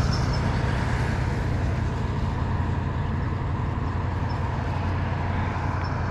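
A vehicle engine running steadily, with a constant low hum under a noisy rush.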